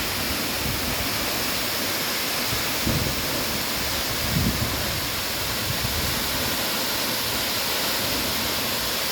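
Waterfall roaring, a steady even rush of falling water. A few brief low bumps of wind on the microphone come about three and four and a half seconds in.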